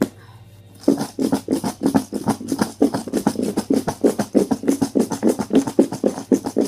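Numbered raffle chips rattling inside a box as it is shaken, a dense run of quick clicks and knocks starting about a second in, after a single knock.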